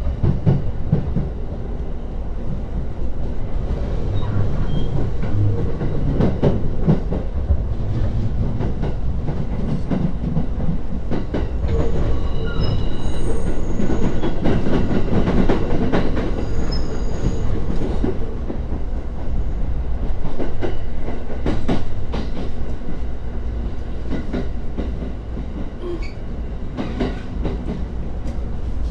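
E231-series commuter train running into a terminal station, heard from inside the carriage: steady running noise with wheels clattering over rail joints and points, and a few short high wheel squeals near the middle.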